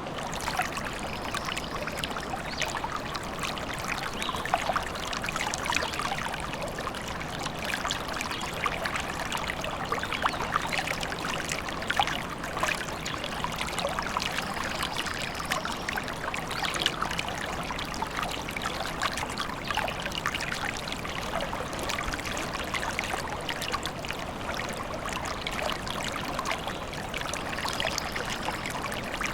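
Small stream babbling and trickling steadily over stones.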